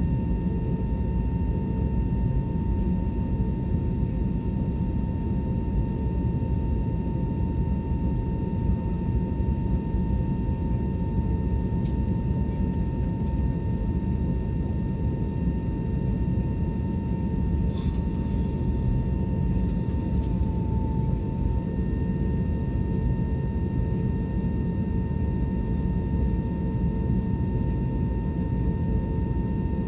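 Airbus A320neo airliner heard from inside the cabin: a steady, even rumble of engines and airflow, with a steady whine running through it.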